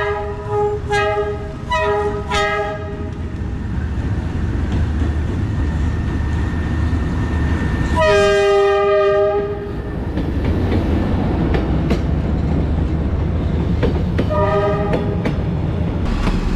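A train horn sounds three short blasts, then one long blast about eight seconds in and another short blast near the end. Under the horn runs the steady rumble and wheel clatter of a train passing close by.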